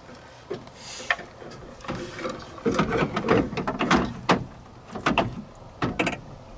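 Irregular clanks, clicks and rattles of a metal light-bar mounting bracket and its hardware being handled and fitted. They come thickest in the middle, with a few single knocks near the end.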